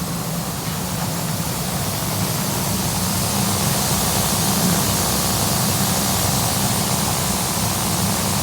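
Grain-handling plant running as the dryer is emptied: a steady machinery hum under an even rushing hiss of wheat flowing on the belt conveyor, the hiss growing a little louder a couple of seconds in.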